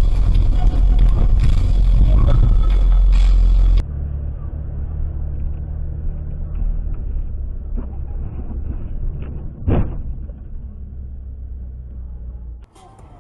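Steady low rumble of a car's engine and road noise as picked up by dashcams, loud at first, then a quieter, duller recording after an abrupt change. A brief louder sound stands out just under ten seconds in.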